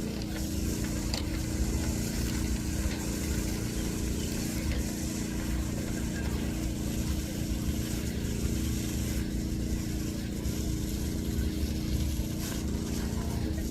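A motor vehicle's engine running steadily, a constant hum with a low rumble underneath.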